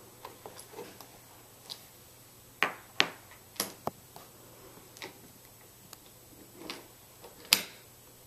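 Irregular clicks and knocks of toy train pieces and toy vehicles being handled and set down on the track, about a dozen in all, the sharpest about 3 seconds in and near the end.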